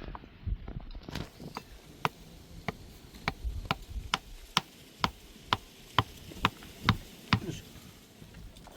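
A run of sharp, evenly spaced knocks, about two a second, that stops near the end.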